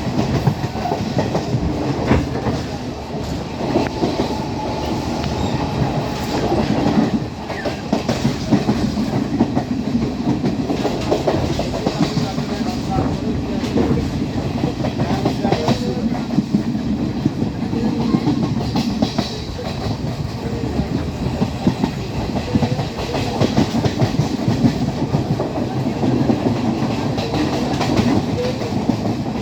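Class S12 diesel multiple unit running along the line, heard from on board: a steady rumble of wheels on rail with a running clatter of clicks as the wheels pass over rail joints.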